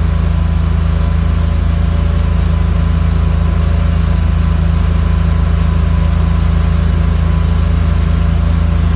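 Car engine with CIS fuel injection running steadily at a raised warm-up idle, which has crept up to around 3,100 RPM without the gas pedal touched. This is part of the CIS fuel-system trouble the owner is chasing.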